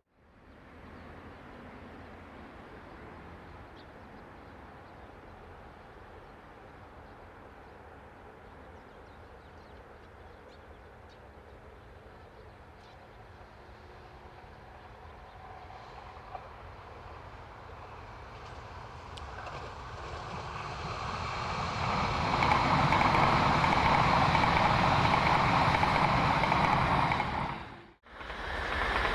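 E6-series Komachi mini-shinkansen train approaching on the rails. Over a faint background hiss it swells to a loud, steady rush of wheels and running gear as it passes. The sound cuts off abruptly near the end.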